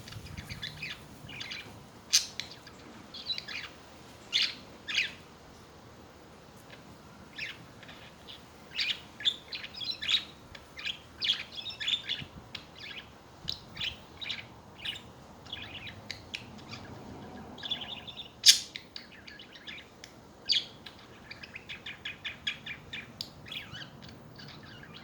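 Budgerigars chattering: a stream of short, high chirps and warbles, with a few sharper, louder calls.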